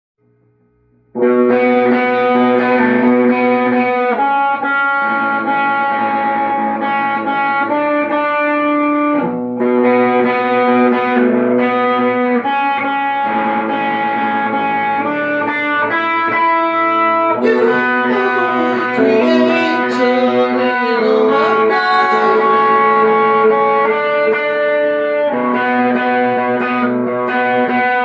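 Guitar playing a slow instrumental intro of sustained chords that change every few seconds. It starts about a second in, with a brief break about a third of the way through.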